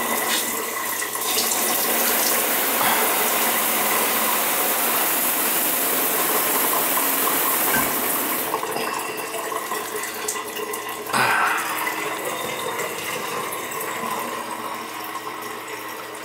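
Shower head spraying water at full flow, its O-ring flow restrictor taken out for more flow. The spray weakens about eight seconds in, and there is a single knock about eleven seconds in.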